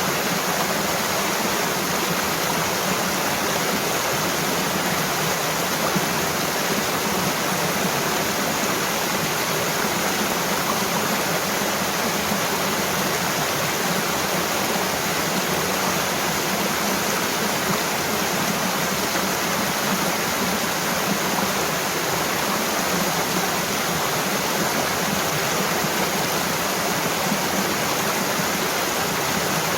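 Mountain waterfall: water falling and rushing in a steady, even roar of white noise that does not change.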